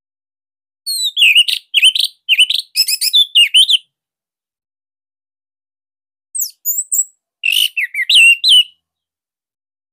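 Orange-headed thrush singing: a rapid three-second phrase of varied gliding notes about a second in, then after a pause two shorter phrases near the end.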